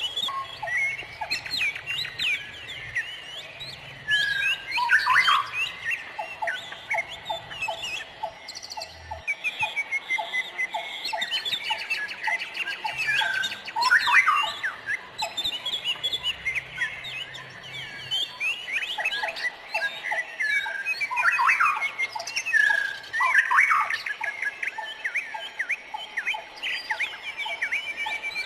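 Many wild birds chirping and calling at once, overlapping whistled chirps and swooping notes. Several times a run of short, quick low notes repeats, and a fast trill starts near the end.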